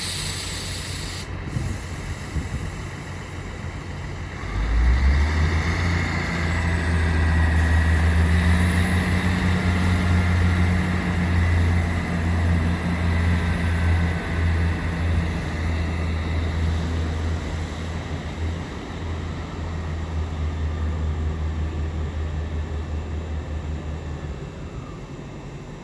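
Class 158 diesel multiple units pulling out: their underfloor diesel engines open up about four seconds in to a loud, deep, steady drone, with a higher whine that rises and then falls, before the engine note drops away near the end.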